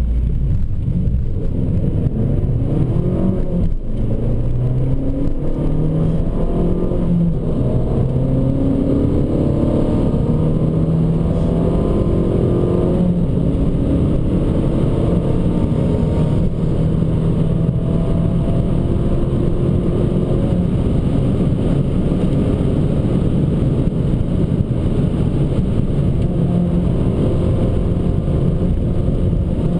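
Abarth 595 Competizione's 1.4-litre turbocharged four-cylinder engine under hard acceleration. Its pitch climbs in repeated rising sweeps as it pulls through the gears for the first dozen seconds or so, then holds at a steadier, higher pitch.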